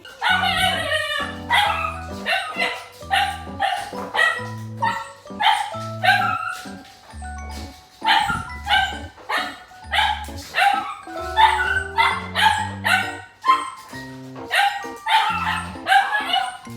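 Puppy barking repeatedly, about one or two barks a second, over background music.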